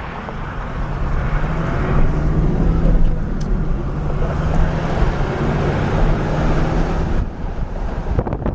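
A car's engine and tyre noise as the vehicle pulls ahead along the road, with a steady low hum that swells a couple of seconds in. The road noise drops off suddenly near the end, followed by a few clicks.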